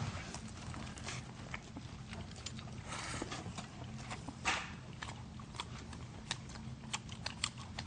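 People chewing mouthfuls of pizza: faint, irregular wet mouth clicks and smacks over a low steady hum.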